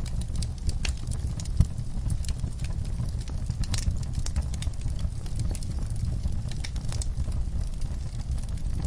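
Wood fire crackling in a fireplace: a steady low rumble of flames with irregular sharp pops and snaps, one louder pop about a second and a half in.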